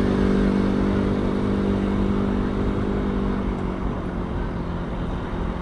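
Motor vehicle engine running with a steady drone that slowly fades, over general traffic rumble.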